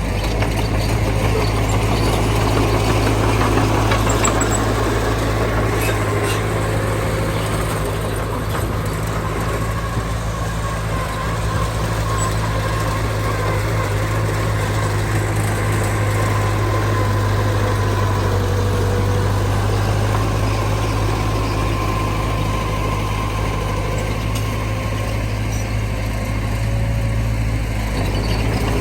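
Heavy diesel engine of earthmoving machinery running steadily with a deep, constant hum.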